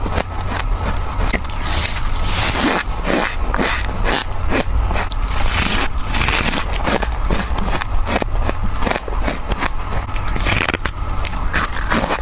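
Close-miked mouth biting and chewing freezer frost: quick, dense, squeaky, crispy crunches one after another, over a steady low hum.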